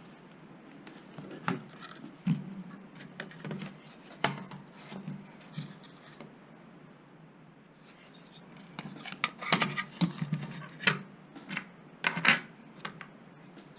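Scattered small clicks, taps and scraping sounds of a circuit board and hand tools being handled, with a quicker run of sharper clicks and knocks in the last third.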